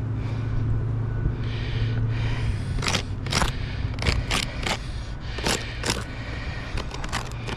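Short scratchy strokes of a marker being drawn across an asphalt shingle, coming in quick pairs and threes as X marks are written on the tabs, over a steady low hum.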